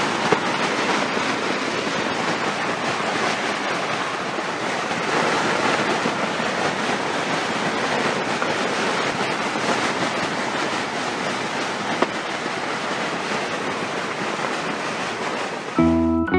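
Strong wind rushing steadily, a loud even noise with no let-up.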